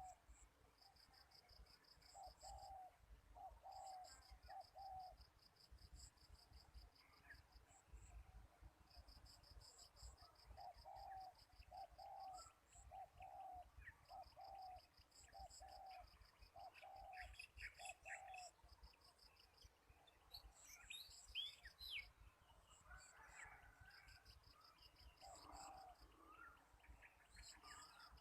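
Faint spotted dove cooing in runs of short, low coo notes, twice in long series and once more near the end. A high-pitched insect trill pulses throughout, and other small birds chirp briefly in the middle.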